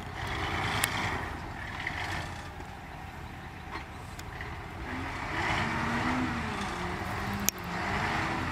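Heavy diesel machinery running under load, its engine note wavering, with a couple of sharp knocks.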